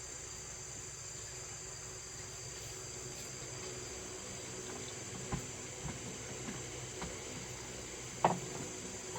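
Steady high-pitched chorus of insects, with a few light knocks; the loudest knock comes about eight seconds in.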